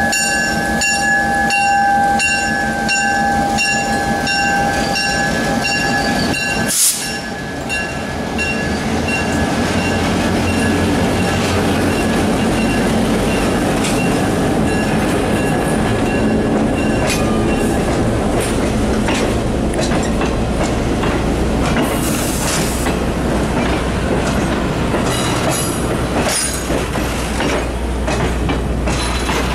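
Diesel locomotive passing close at low speed, with a steady ringing tone pulsing about twice a second for the first seven seconds, which ends in a sharp click. Then the passenger coaches roll past, wheels rumbling and clicking over the rail joints.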